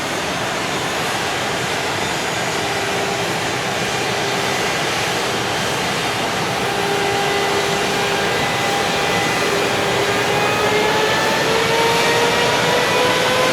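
EF510 electric locomotive pulling away from a stop with a container freight train: its inverter-driven traction motors give a whine that rises steadily in pitch as it gathers speed, over a steady rushing noise of the train, growing slowly louder.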